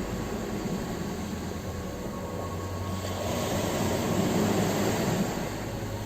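Ocean surf washing on a shore, a steady rush of water with one wave surging louder about three seconds in and falling back near the end.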